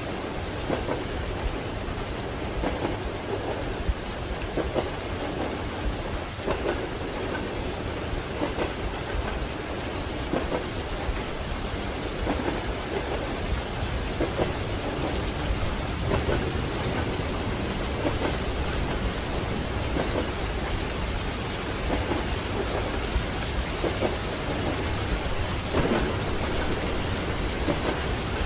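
Steady rain over the low rumble of a moving train, with a soft knock about every two seconds from the wheels passing over the rail joints.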